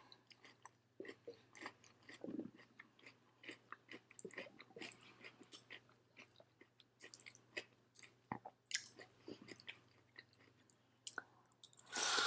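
Close-miked chewing of juicy cut fruit dressed with chamoy and chili: faint, scattered wet mouth clicks and smacks. A brief, louder rush of noise comes near the end.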